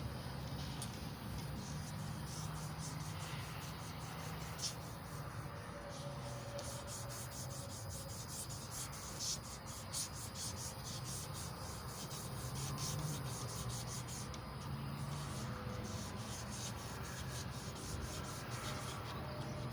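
Emery cloth rubbed steadily against a small block Chevy 350 crankshaft journal: a continuous scratchy sanding, polishing the journal during an engine rebuild.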